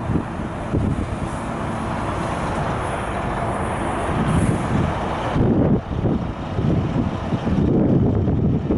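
Scania R 480 truck's diesel engine running, with wind buffeting the microphone.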